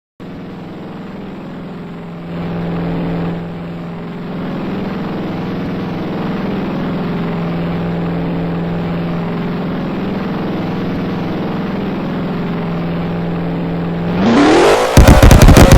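Chevrolet Corvette engine and exhaust idling steadily, briefly a little louder about two seconds in. Near the end it is revved hard: the pitch rises quickly into a very loud, rapid, crackling exhaust note that overloads the recording.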